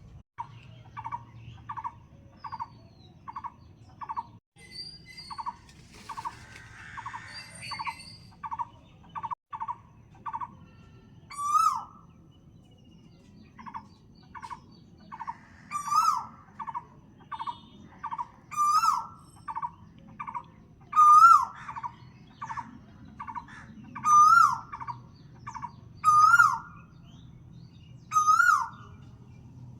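Birds calling: a steady run of short, evenly spaced notes, about two a second. Every two to three seconds a louder call rises and falls over them.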